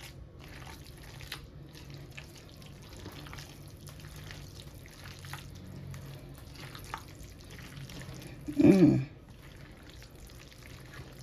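Wet stirring and scraping as potato salad dressed with Miracle Whip is mixed in a small bowl with a spatula: soft scattered clicks and smacks. One brief, louder pitched sound, bending in pitch, comes about three-quarters of the way in.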